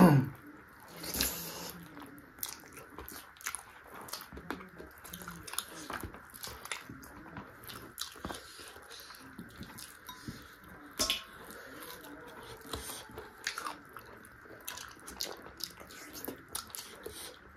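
Close-miked biting and chewing of chicken feet: irregular wet smacks and crunches, a few of them louder, about a second in and around eleven seconds in. A short, loud falling sound comes at the very start.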